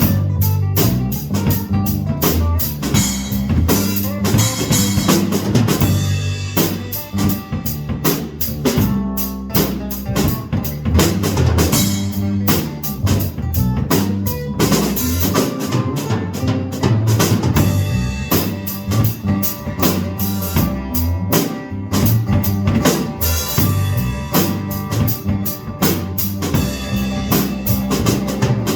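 Live band music with a drum kit driving a steady beat, snare and bass drum hits over low bass notes.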